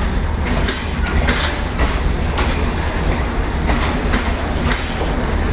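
Nilsagor Express passenger coaches running through a station at speed without stopping: a steady loud rumble with the rhythmic clickety-clack of wheels over rail joints, about two clicks a second.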